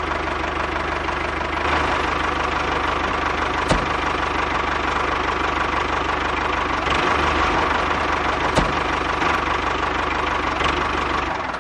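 A small motor runs steadily in a home-built mini tractor water-pump model, with two sharp clicks about four and eight and a half seconds in.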